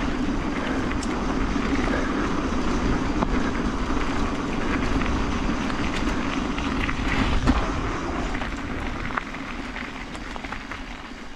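Mountain bike rolling fast down a paved trail: wind rushing over the microphone and the tyres humming on the asphalt, with a single knock from a bump about seven and a half seconds in, easing off near the end as the bike slows.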